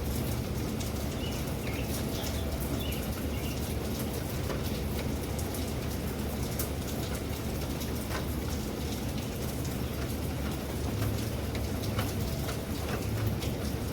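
Steady rain, an even hiss with a constant low rumble beneath and many sharp ticks of single drops striking.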